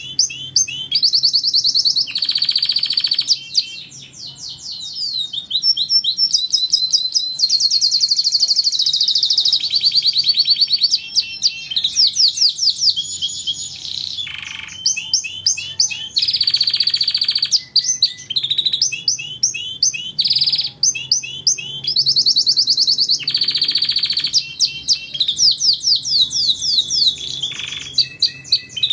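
Domestic canary singing a continuous, loud song of rapid trills, buzzy rolls and repeated whistled notes, changing phrase every second or two.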